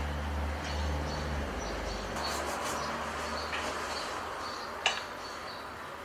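Ambient room sound with short, high chirps of a small bird repeating every half second or so, over a low hum that stops about two seconds in. There is a single sharp click about five seconds in.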